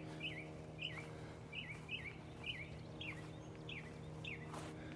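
A songbird singing a repeated series of short whistled notes, roughly two a second, the last few sliding downward, over a faint steady low hum.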